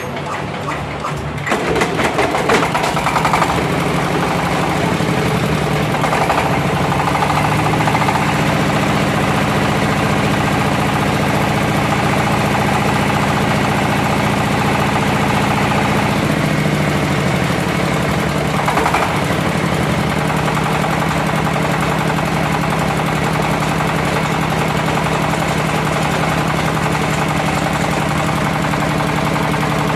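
An engine cranking briefly, catching about a second and a half in, then running loudly; its pitch shifts a few times before it settles into a steady idle for the second half.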